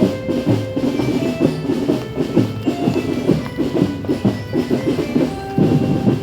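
Marching drum band playing: fast, dense drumming with short melody notes over it.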